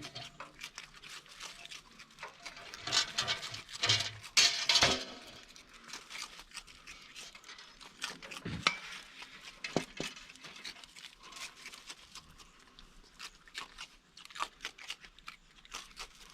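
Raccoons feeding at a bird feeder: irregular crunching, rustling and small knocks, busiest and loudest about three to five seconds in.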